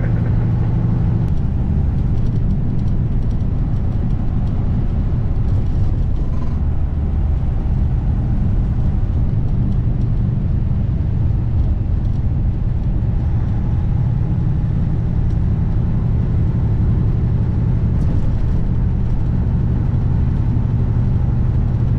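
Diesel engine and road noise of a 2021 Kenworth W900 semi-truck cruising, heard from inside the cab: a steady, low drone with an even hum, unchanging throughout.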